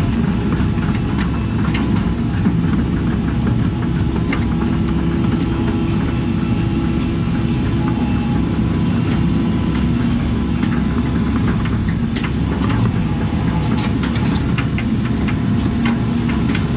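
Diesel engine of a compact earthmoving machine running steadily at working speed, with scattered metallic clicks and clanks over it as it works backfill material.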